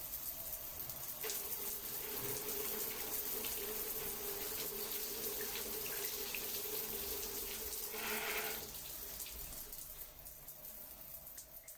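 Water running steadily, with a steady low tone sounding in it from about a second in until about nine seconds; after that it grows quieter toward the end.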